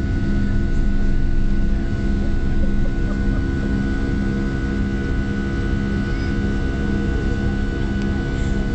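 Boeing 757 jet engines and airflow heard inside the passenger cabin: a loud, steady drone with a constant hum running through it.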